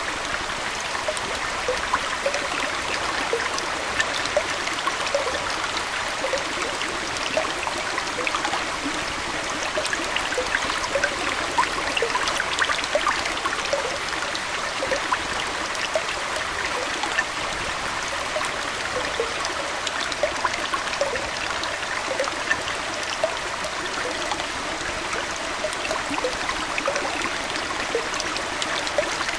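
Aquarium water flowing and trickling steadily, with many small, quick plinks of water scattered throughout.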